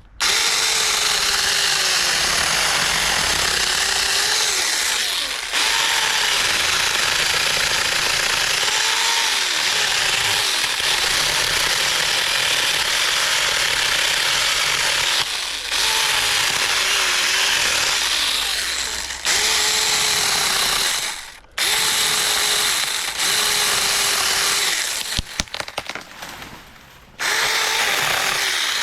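Supstable 6-inch cordless mini chainsaw running under the trigger as its chain cuts through a branch about 6 inches thick, the motor's whine sagging in pitch under load and recovering. It runs almost without a break, stops briefly about two-thirds of the way through, then goes on in short stop-start bursts near the end.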